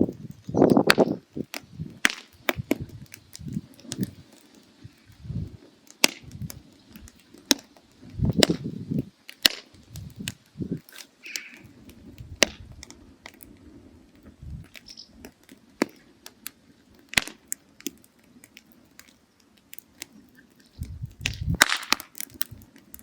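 Firewood burning down to coals, crackling with irregular sharp pops and snaps, and a few deeper, duller swells from the fire in between.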